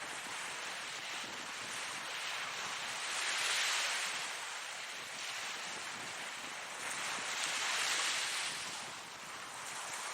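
Ocean surf: a steady wash of waves that swells twice, about three and a half seconds in and again about eight seconds in.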